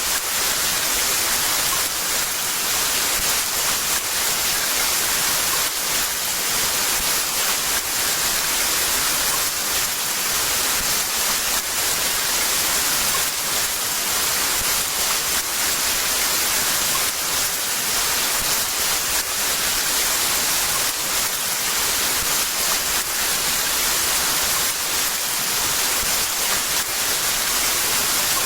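Heavy rain falling steadily, a dense even hiss with no thunder or other breaks.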